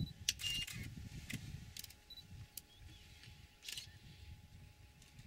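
Camera shutter clicking about six times at irregular intervals, over a low, uneven rumble.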